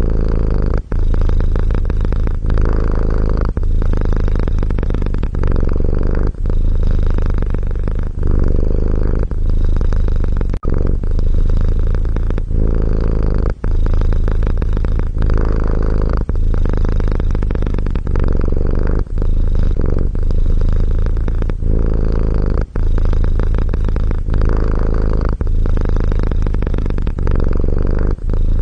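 Domestic cat purring close up, a deep steady rumble that pauses briefly between breaths, about once every second and a half.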